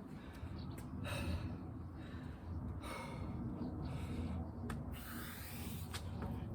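A person breathing hard from exertion during a burpee and chin-up workout, with deep breaths about every two seconds and a few faint clicks.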